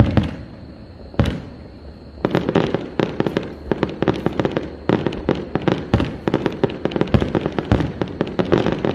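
Aerial firework shells bursting: two loud booms within the first second and a half, then from about two seconds in a dense, rapid crackling of many small pops that runs on to the end.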